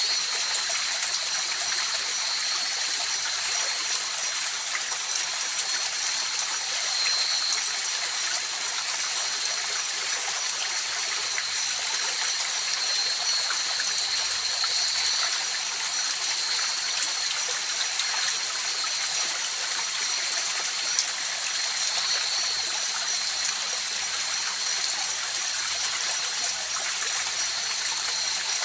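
River water flowing in a steady, unbroken rush. A thin, steady high-pitched tone lies over it throughout.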